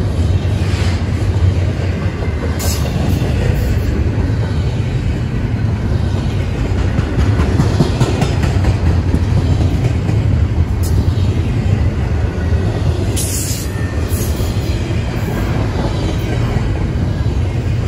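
Freight train rolling past: a steady, loud rumble of wheels on rail, broken by a few brief sharp noises.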